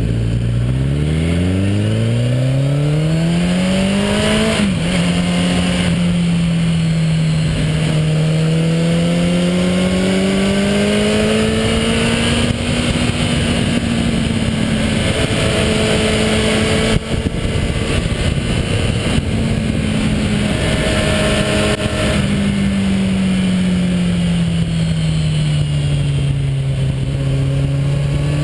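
Motorcycle engine on the move. It revs up from low over the first few seconds and drops in pitch at a gear change about five seconds in, then holds a steady cruise with slow rises and falls in engine speed, over a steady rush of wind noise.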